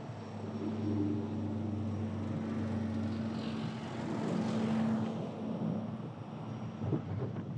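A heavy diesel truck engine running at a steady idle, with freeway traffic passing; one vehicle swells past and fades about four to five seconds in.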